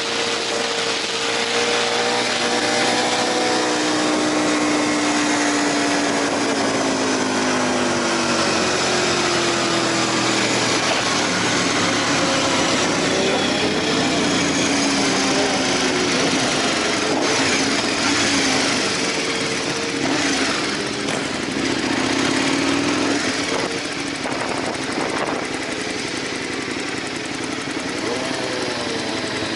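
Aprilia RSV 1000 Factory's V-twin engine heard from on board over heavy wind rush, its note falling in pitch in the first several seconds, the sound somewhat quieter in the second half.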